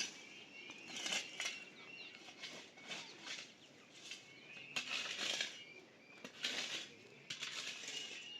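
Small birds chirping, over repeated short scraping or rustling bursts about once a second.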